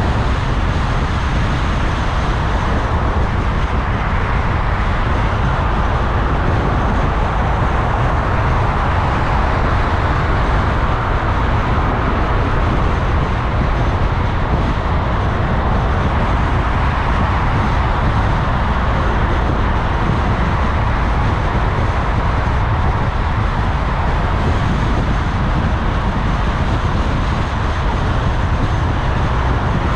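Steady road and engine noise of a car driving, with tyre rumble and no sudden events.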